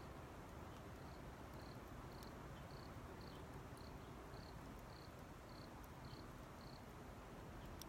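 An insect chirping steadily, one short high chirp about twice a second, over a quiet hiss of outdoor background, with a few faint ticks now and then.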